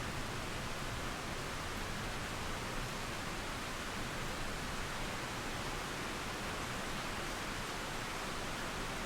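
Steady rain mixed with flowing river water: an even hiss with no single drops or rumbles standing out.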